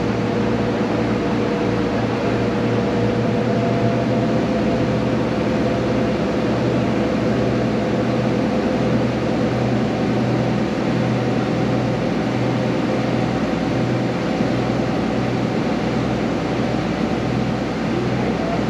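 A ferry's engine running steadily underway: a loud, unbroken drone with a steady low hum and a noisy hiss over it.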